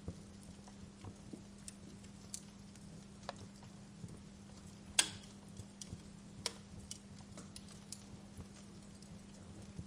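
Wood fire crackling in a fireplace: irregular snaps and pops, the loudest about halfway through, over a low steady hum.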